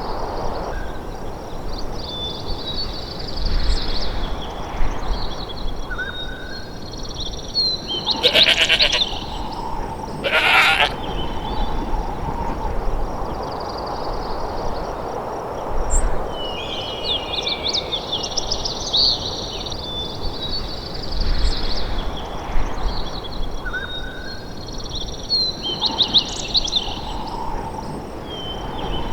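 Outdoor wilderness ambience: small birds sing and trill on and off over a steady background hiss. Two short, loud animal calls stand out, about eight and ten seconds in.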